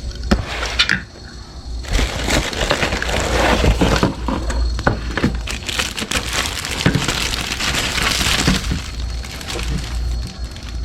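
Dense irregular crackling and clicking with scattered small knocks, over a steady low hum.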